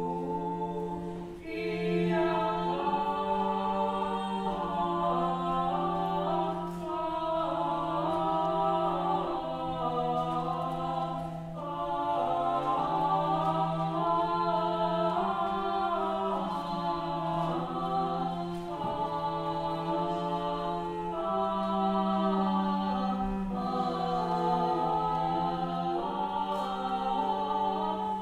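Ensemble of voices singing Old Russian chant-style music a cappella, several parts moving above a low drone that is held steady throughout.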